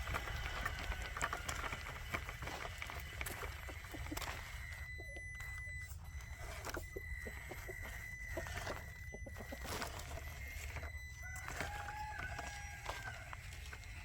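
Traxxas TRX-4M 1/18 RC rock crawler crawling slowly over rocky ground: a thin, high, steady whine from its small electric motor and gearing comes and goes with the throttle, with scattered light clicks, over a low rumble of wind.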